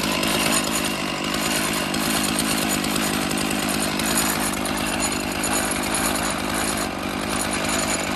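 Stihl MS461 two-stroke chainsaw on an Alaskan chainsaw mill running at a steady full speed, ripping a slab lengthwise through a cedar log.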